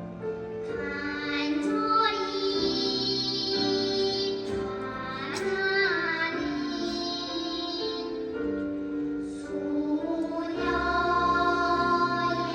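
A children's choir singing a song with musical accompaniment, in long held notes.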